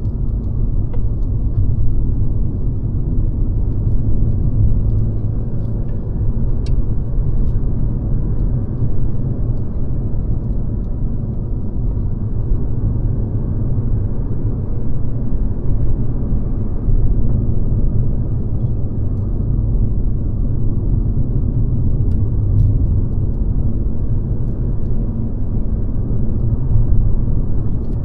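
Mercedes-Benz C-Class (W206) on the move, a steady low rumble of engine and road noise with no sharp changes.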